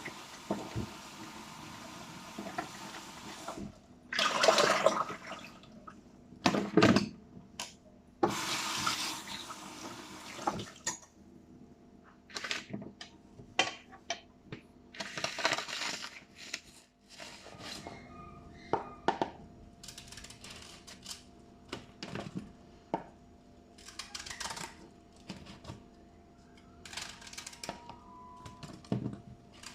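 Kitchen tap running water in several short spells, a second or two each, with scattered clicks and knocks of things being handled at the sink.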